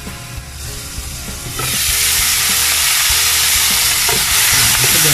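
Chicken skin and fat sizzling as they render in a wok, muffled at first, then much louder about a second and a half in as the glass lid comes off, with a wooden spatula stirring the pieces.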